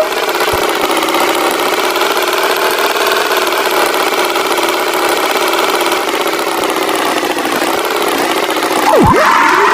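Cartoon tractor engine sound effect running at a steady idle. A quick swooping effect dives down in pitch and back up about nine seconds in.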